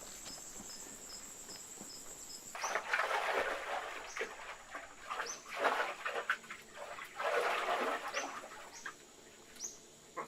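Insects trilling steadily with a regular pulsing chirp, about two a second. From about two and a half seconds in, a run of louder, irregular rough scraping noises comes in, with a few short high falling chirps among them.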